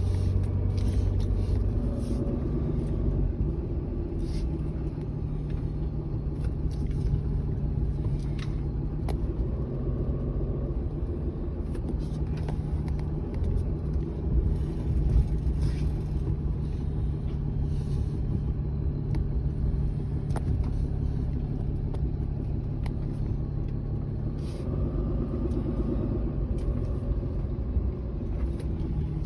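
A motor vehicle's engine running with a low rumble, its pitch shifting up and down a few times.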